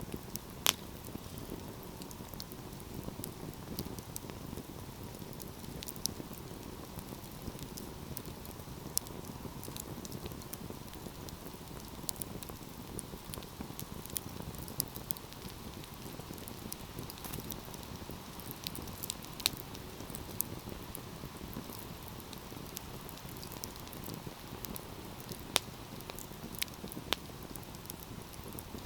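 Wood fire burning with a steady low rush and scattered sharp crackles and pops, the loudest about half a second in and again near the end.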